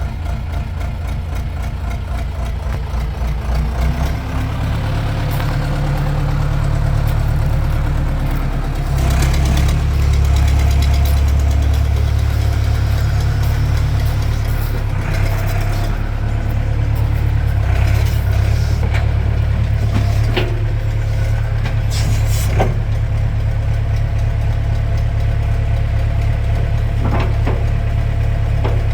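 Schaeff construction machine's diesel engine running steadily. The revs step up about four seconds in and climb higher for a few seconds around the middle, with several short metallic clanks heard over the engine.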